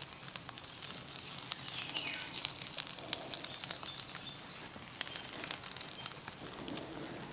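Faint outdoor ambience with birds chirping and scattered light crackling clicks.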